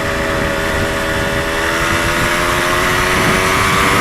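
Yamaha DT125's two-stroke single-cylinder engine running steadily on the move, its pitch creeping slightly higher, over a steady rush of wind and road noise.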